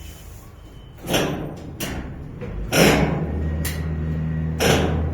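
A series of heavy knocks and bangs, five in all, about one a second, each ringing on briefly, from work securing cargo in a shipping container. A steady low hum starts about three seconds in.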